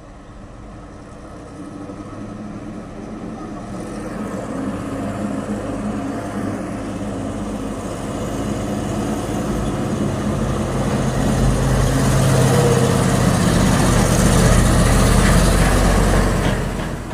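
Truck engine running under load on a steep climb, growing steadily louder as it comes closer, then falling away suddenly near the end.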